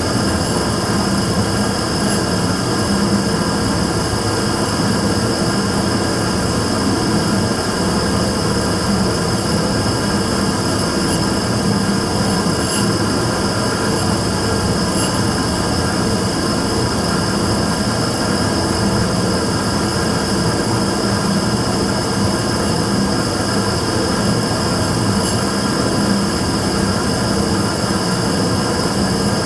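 Immersion-tube burner running steadily: a continuous rushing noise with a low hum and a thin high tone over it, the abnormal noise its owner set out to record.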